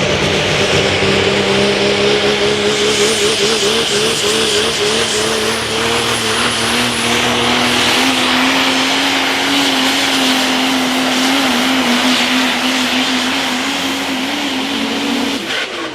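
Multi-turbocharged super stock diesel truck running flat out under load as it pulls the sled down the track, its engine note climbing slowly and wavering. The engine note drops away sharply near the end as the pass finishes.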